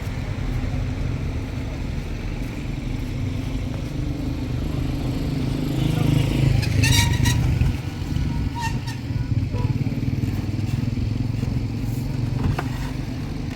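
Steady low engine and road rumble of a moving motor vehicle, swelling louder about six to seven and a half seconds in.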